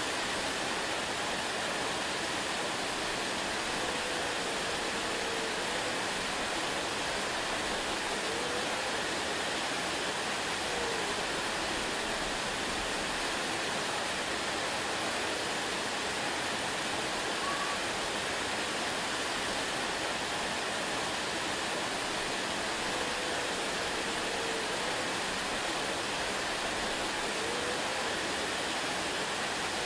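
Waterfall: a steady, unbroken rush of falling water. A few faint, short gliding notes rise above it now and then.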